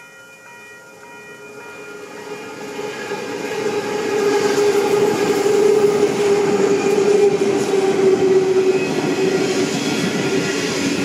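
A train approaches, growing louder over the first four seconds, then runs past close by with a heavy steady rumble of wheels and machinery and a strong low hum. A faint steady multi-tone sound with a light regular tick stops about two seconds in.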